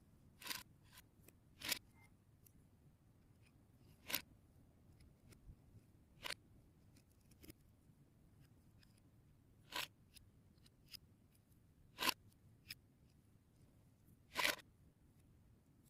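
Lego Technic plastic parts clicking and snapping together or apart, one crisp click every second or two with faint ticks of handling between.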